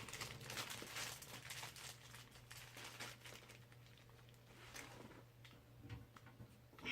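Faint crinkling and rustling of things being handled, thickest in the first few seconds, over a low steady hum.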